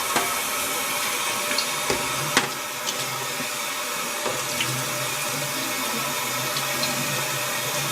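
Tap running steadily into a sink while a bird-cage part is rinsed under it, with a few light knocks of the part against the sink.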